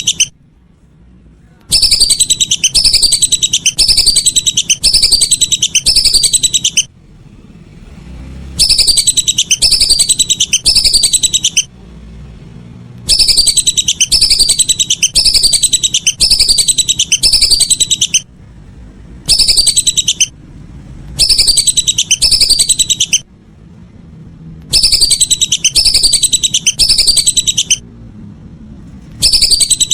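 Whistling duck calls: loud, high whistled notes that fall in pitch, repeated about twice a second in runs of a few seconds broken by short pauses.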